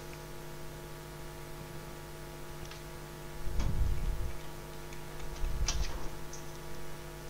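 Steady electrical mains hum, with two low muffled bumps about halfway through and a few faint ticks.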